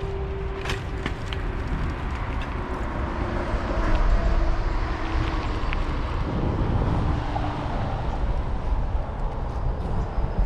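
Wind rumbling on the bike-mounted camera's microphone and tyres running over a rough track while cycling, with scattered light clicks and rattles from the bicycle.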